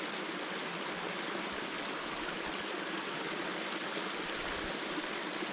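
Steady rush of running water flowing without letting up.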